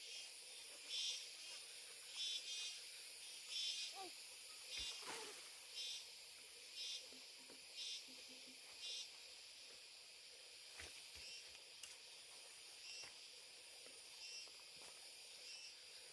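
Insects chirping: short trilled chirps repeating roughly once a second over a steady high insect hiss, faint, with a few soft clicks.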